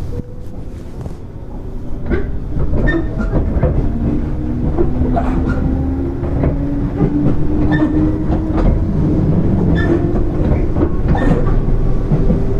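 JR 205 series 0-subseries electric train (field-added excitation control) running: a low rumble with a traction motor and gear hum that rises slowly in pitch, and wheels clacking over rail joints. It gets louder about two seconds in.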